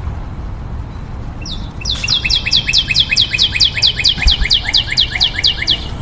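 A songbird singing a fast, even run of about twenty downward-sweeping notes, about five a second, that starts about a second and a half in and stops just before the end. A steady low rumble sits underneath.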